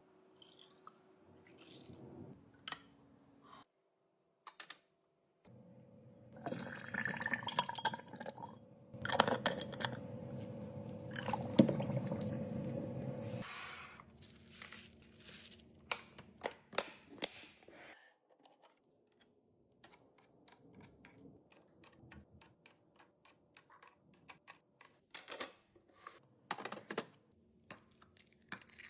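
Food containers and packaging being handled and set into a fridge: scattered clicks, taps and crinkles. There is a louder stretch of liquid sounds in the middle.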